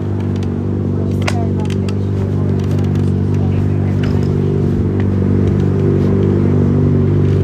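Steady low hum of an idling engine, holding one pitch throughout, with scattered clicks and rustle from the phone being handled and stowed in a pocket.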